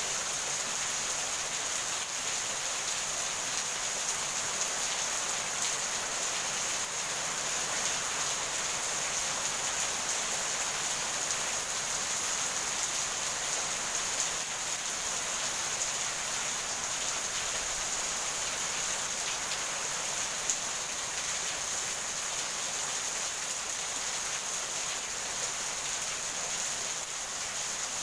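Steady, even rainfall with no thunder, plus a constant high hiss and a single small tick about 20 seconds in.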